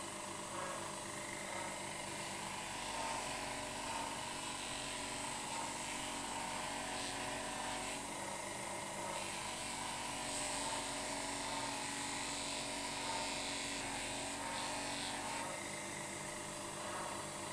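A small electric power tool running steadily.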